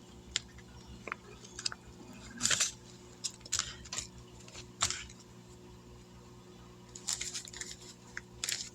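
Paper and plastic rustling and crinkling in short scattered bursts as money is pulled out of small savings envelopes, over a faint steady electrical hum.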